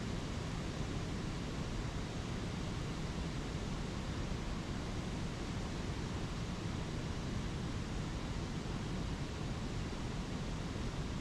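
A spring creek and its waterfalls flowing, a steady even rush of water.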